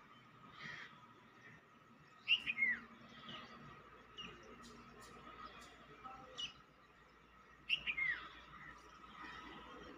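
A songbird chirping: a short phrase of quick high notes ending in a falling whistle, about two seconds in and again some five seconds later, with fainter single chirps between.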